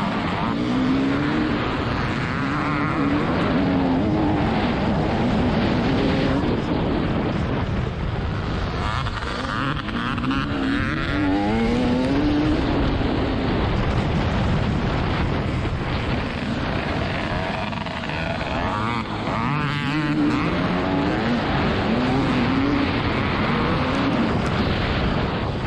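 TM 300ES two-stroke motocross bike engine revving hard, its note repeatedly rising and dropping, every second or two, over heavy wind and track noise.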